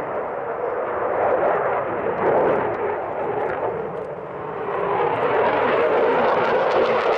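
Jet noise from a Eurofighter Typhoon's two Eurojet EJ200 turbofans in flight. It dips briefly about four seconds in, then swells louder and brighter.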